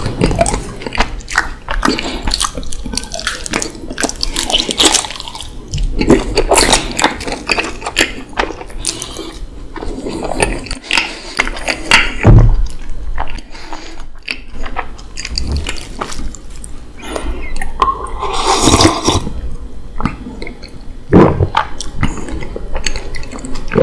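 Close-miked chewing of a mouthful of raw honeycomb: sticky, wet mouth sounds of honey and beeswax, with many small irregular clicks and smacks.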